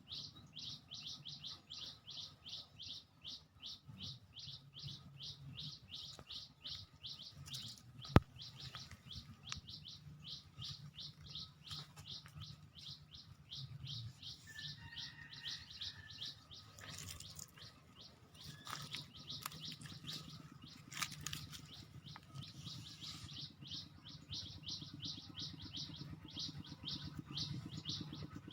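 Small songbirds chirping: a fast, even series of high chirps, about four a second, that thins out in the middle and picks up again near the end. A single sharp click about eight seconds in.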